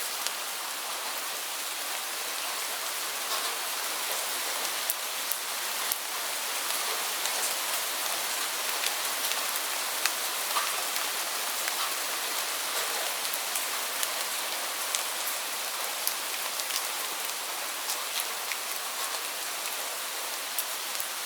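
Heavy rain falling steadily: a dense, even hiss with many sharp individual drops pattering on a surface throughout.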